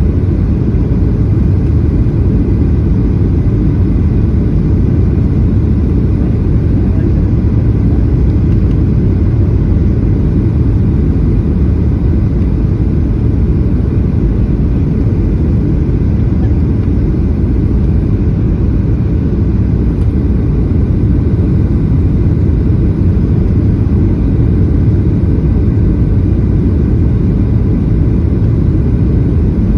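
Airliner cabin noise: a steady low rumble of engines and airframe.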